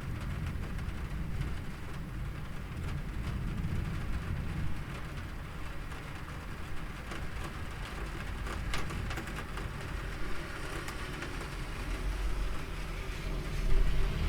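Steady rain falling, with scattered drop ticks and a low rumble underneath.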